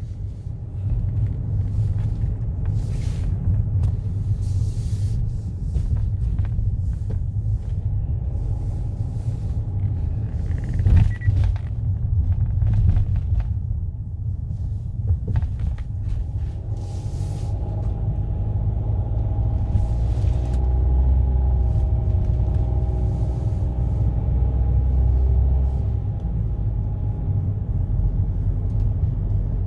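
Car driving: a steady low rumble of engine and tyres on the road, with a few brief hissing swishes. From about seventeen to twenty-six seconds in, a steady hum rides over the rumble.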